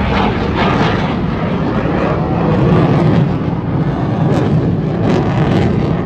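Air force fixed-wing aircraft flying past at an air show: a loud, steady rush of engine noise that swells about three seconds in.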